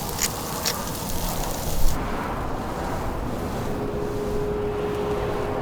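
Road traffic going by: a steady rush, with a few sharp clicks in the first two seconds and a vehicle's steady hum coming in about two-thirds of the way through.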